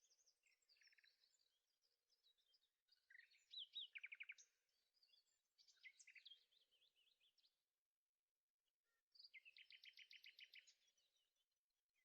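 Faint birdsong: a small songbird singing phrases of quick chirps and rapid trills, with a short pause past the middle. The loudest trill comes about four seconds in.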